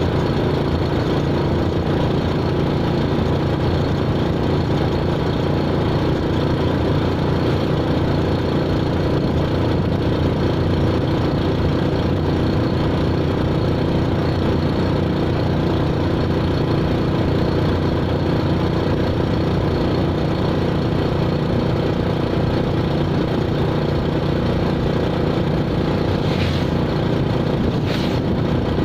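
An engine running steadily at an even pitch, with two brief high, hissing sounds near the end.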